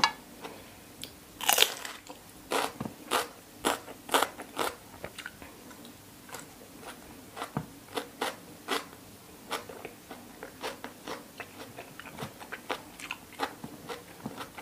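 Mouth chewing crisp raw vegetables with pork liver salad: a string of sharp, irregular crunches, loudest in the first few seconds, then thinning to softer chewing.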